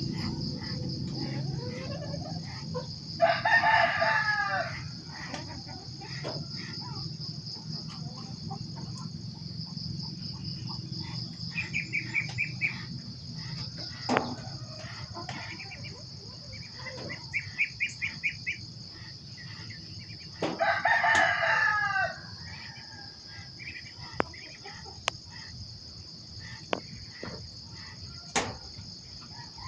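A rooster crows twice, about 3 seconds and 21 seconds in, each crow lasting about a second and a half. Shorter rapid chirping calls come around the middle, over a steady high-pitched insect drone.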